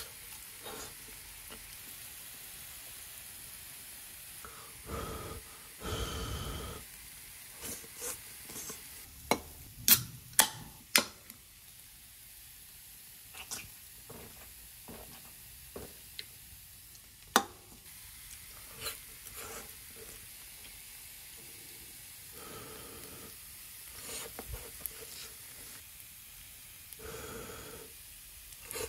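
Sausages, broccoli and hash brown patties frying in a hot sandwich maker pan with a steady, faint sizzle. Sharp clicks of chopsticks against the pan break in now and then, with a quick run of them about ten seconds in and a single loud one near seventeen seconds.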